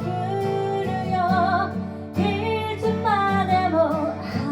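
Female voice singing a melodic line with wavering, sliding pitch over guitar accompaniment.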